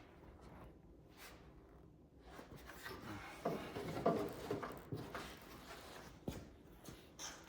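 Hands and tools working on car parts: scattered rustling, rubbing and clicks, busiest about halfway through, with a couple of sharp knocks near the end.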